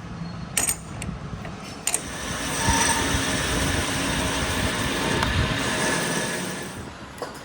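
Two sharp clicks, then a workshop machine runs for about five seconds with a steady hiss and a few faint whining tones, fading out near the end.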